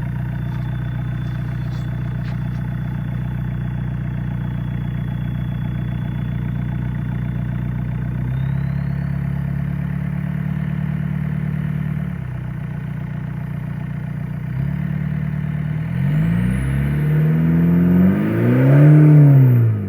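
Volkswagen New Beetle's 1.9 ALH TDI four-cylinder turbodiesel running through a straight-piped exhaust. It idles steadily, steps up to a faster speed about eight seconds in and drops back a few seconds later, then is revved up and down in blips near the end, with a faint high whine climbing with the revs.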